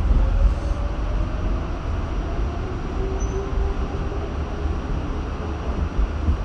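R68 subway train running on the rails with a steady, heavy rumble. A faint whine rises in pitch over the first couple of seconds and a steadier whine follows near the middle.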